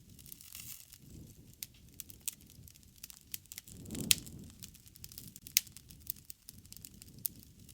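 Wood fire crackling: frequent sharp pops and snaps over a low rush of burning. About four seconds in the low rush swells and there is a loud pop, with another sharp pop about a second and a half later.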